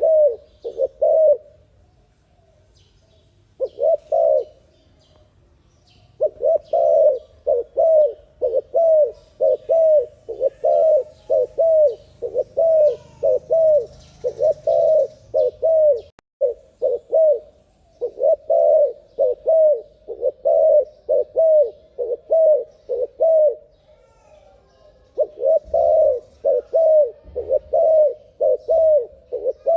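Spotted dove (terkukur) cooing fast: runs of short, repeated coos, about two to three a second, broken by brief pauses.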